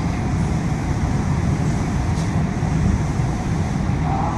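Steady low rumble and air-conditioning hiss inside an Okinawa Yui Rail monorail car.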